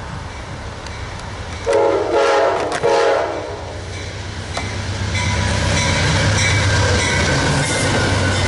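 Amtrak P42DC diesel locomotive sounding its horn in two blasts, the first longer, as it approaches. From about halfway through, the rumble of the locomotive and passenger cars passing close on the rails grows louder.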